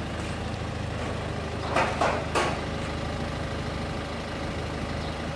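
A vehicle engine idling steadily with a low hum. About two seconds in, three brief louder sounds stand out above it.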